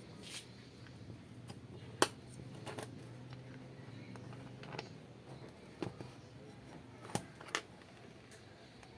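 Sharp clicks and knocks of hard parts of a rotary hammer drill being handled and fitted together, about seven in all and irregularly spaced, the loudest about two seconds in.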